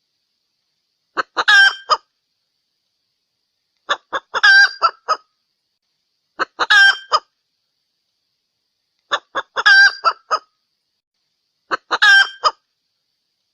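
Junglefowl hen's call, played as a hunting lure to draw in a male. The short phrase of a few quick notes repeats five times, about every two and a half seconds, with identical calls and dead silence between them, as from a looped recording.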